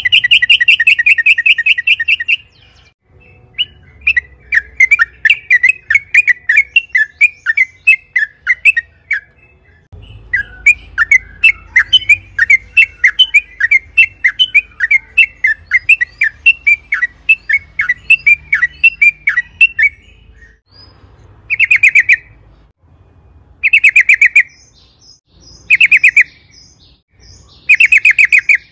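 Yellow-vented bulbul (trucukan) singing: a fast trill at the start, then long runs of rapid bubbling, chattering notes, ending in four short trills about two seconds apart.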